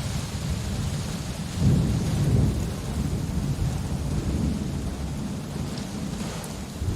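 Steady rain with a low rolling thunder rumble that swells about a second and a half in, then settles back under the rain.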